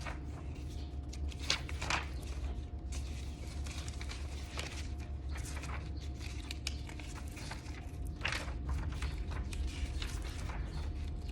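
Paper pages of a booklet being handled and turned, with scattered soft rustles and taps over a steady low background hum.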